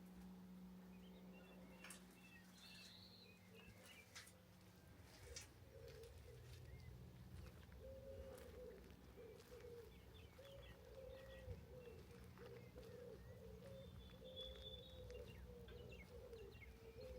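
Faint rural birdsong: a pigeon cooing in a low phrase repeated over and over from about five seconds in, with small birds chirping now and then. A few faint clicks and a low hum sit underneath.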